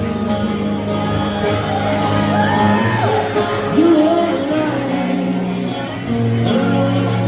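Live band music: an instrumental passage with sustained chords between sung lines of a pop-rock ballad.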